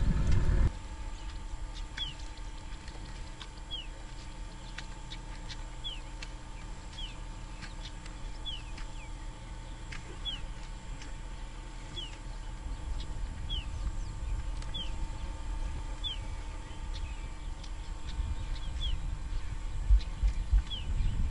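A bird repeats a short, high, downward-sliding call about once a second over a faint steady hum. A loud low rumble cuts off under a second in, and low rustling with a few thumps comes up near the end.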